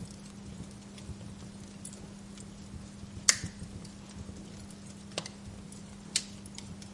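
Wood fire crackling in a fireplace: scattered small ticks, a loud sharp pop about a third of the way in, and two more pops near the end, over a steady low hum.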